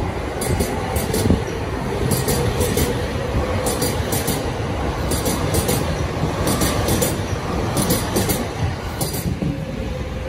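Yellow-striped JR Chuo-Sobu Line electric commuter train running alongside the platform with a steady rumble. The wheels click over rail joints in quick groups about every second and a half, over a faint steady electric whine.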